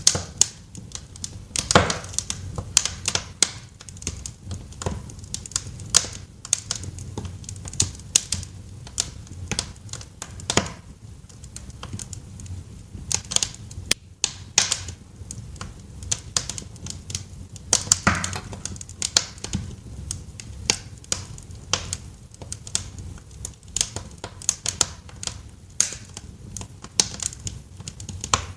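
Wood fire crackling in a fireplace: irregular sharp pops and snaps, some louder than others, over a steady low background.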